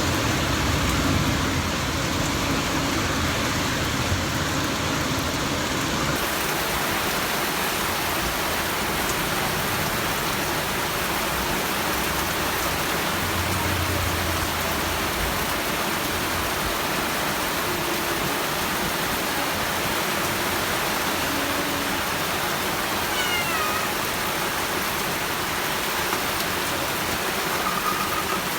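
Steady rain falling, an even hiss of downpour that holds level throughout. A few faint, short falling chirps sound about two-thirds of the way through.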